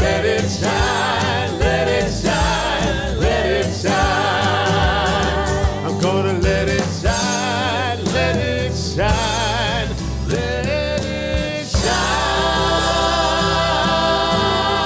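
Gospel-style music: singing with wavering runs and vibrato over steady backing. About twelve seconds in, it settles into a long held chord.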